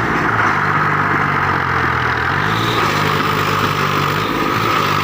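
Tractor diesel engine running steadily, its speed shifting slightly about two seconds in and again near the end.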